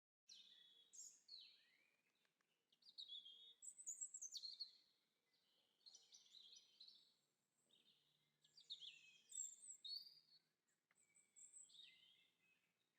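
Birdsong: faint, quick chirping and warbling phrases from songbirds, coming one after another with short gaps.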